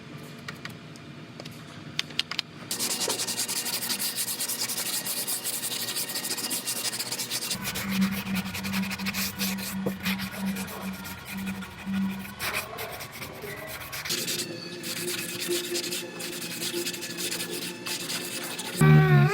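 Power sanding on sheet-metal bodywork: a steady abrasive rubbing that starts about three seconds in, after a few light clicks, with a low motor hum through the middle. Music comes in at the very end.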